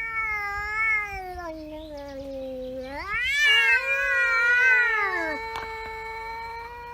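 Cat yowling in long, drawn-out pitched calls: one falling call, then a louder wavering one, with a second steady held yowl joining about halfway through.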